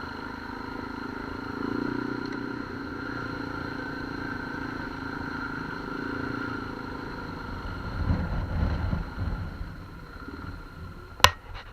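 Off-road vehicle engine running steadily while riding, with low rumbling swelling up about two-thirds of the way through and a single sharp knock near the end.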